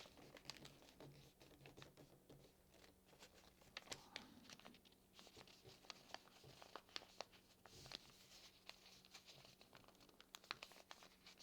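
Faint crinkling and rustling of a sheet of paper being folded and creased by hand, with scattered small ticks as it is pressed and handled.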